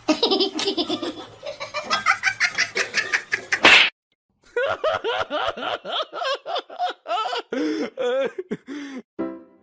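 People laughing in quick, repeated bursts, then after a short break about four seconds in, another stretch of laughter.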